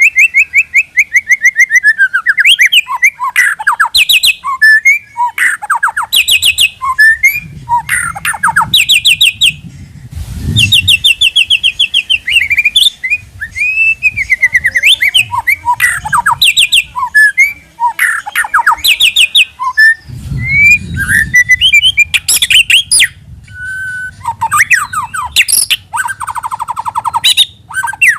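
White-rumped shama (murai batu) singing a loud, nearly continuous, varied song of rapid rattling trills, chattering and slurred whistled notes, with short pauses between phrases.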